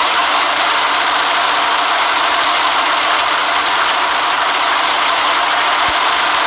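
City bus running, a steady mix of engine and road noise with an even hiss.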